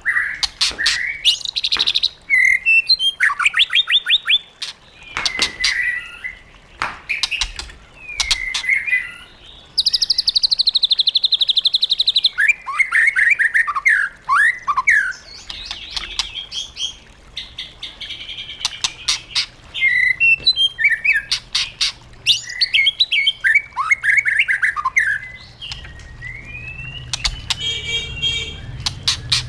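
White-rumped shama singing a long, varied song: whistled phrases, fast trills and buzzy stretches, with sharp clicks between the phrases.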